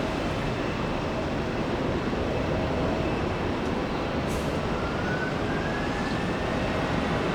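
Airbus A330 jet engines at takeoff power, a steady roar as the airliner rolls down the runway, with a faint thin whine rising in pitch from about halfway in.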